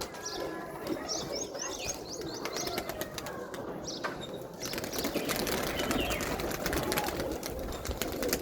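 Pigeons cooing continuously, with a series of short high chirps about a second in and a patter of fine clicks and rustling through the second half.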